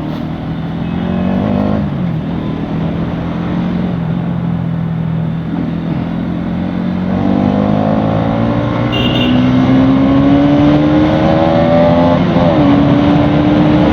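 Bajaj Pulsar NS200's single-cylinder engine running under load while riding, its pitch climbing steadily through the second half with two brief dips, over a rush of wind and road noise.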